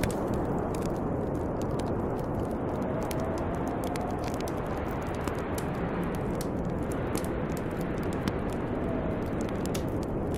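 Snowstorm wind blowing steadily, with a faint whistle that rises and falls now and then, and the sharp crackling and popping of a wood fire over it.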